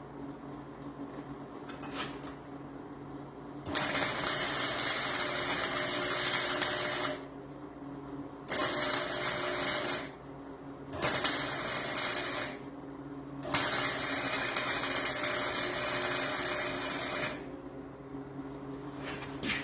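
A metalworking tool run in four bursts, the first and last about four seconds long and the middle two shorter. A steady low hum runs underneath throughout.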